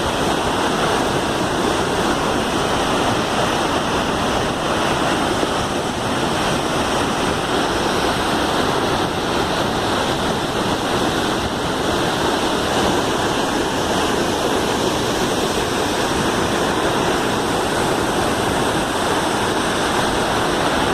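Waterfall: a steady, constant rush of falling water.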